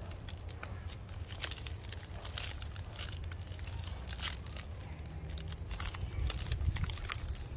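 Plastic MRE packaging being handled and opened: a run of small, irregular crinkles and crackles over a low steady hum.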